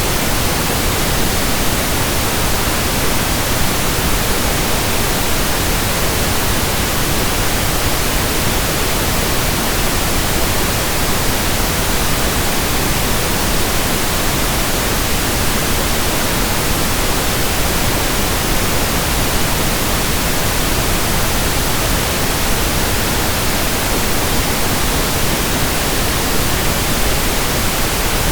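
Steady pink noise: an even, unbroken hiss spread across all pitches, with no change in level.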